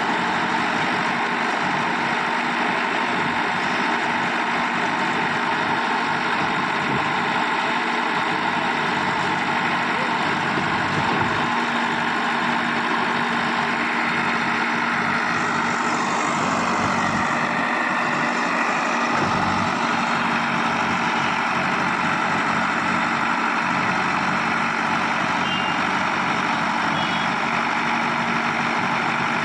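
Heavy diesel engine running steadily at a constant level, from the JCB or the lorry carrying it.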